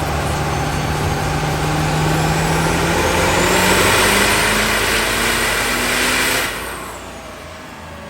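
High-horsepower diesel truck engine under hard acceleration. Its pitch climbs steadily for about six seconds together with a rising high whine, then the sound drops away sharply as it lets off.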